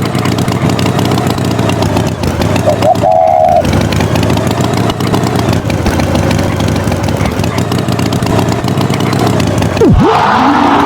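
Tractor engine sound effect running steadily, with a short high-pitched beep about three seconds in and a quick swooping pitch glide near the end.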